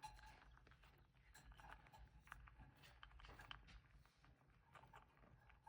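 Near silence: room tone with faint scattered clicks and taps.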